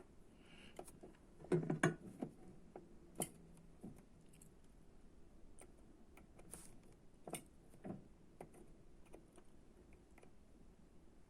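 Scattered small clicks and taps of tools and parts being handled while assembling a small electronics kit, with a few louder knocks about two seconds in.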